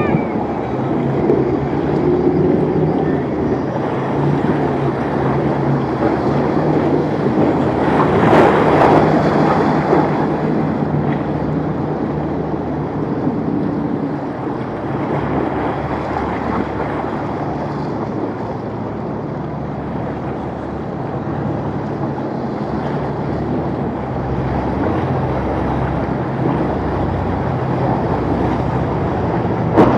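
Boat engines running steadily through rough water, mixed with waves, water rushing and wind buffeting the microphone, with a louder surge of rushing noise about eight seconds in.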